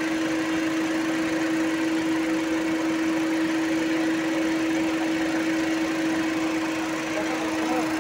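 Volkswagen Polo diesel engine idling steadily during an injector back-leakage test, a constant hum with a steady tone over it.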